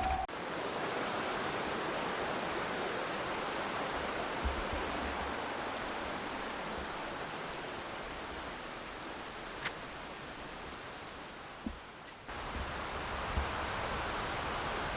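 Steady rushing hiss of a creek's running water, with a few faint ticks; the sound drops and changes abruptly about twelve seconds in.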